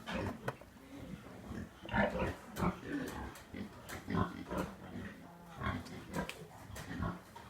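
Pigs grunting: a string of short, irregular grunts, one or two a second, some louder than others.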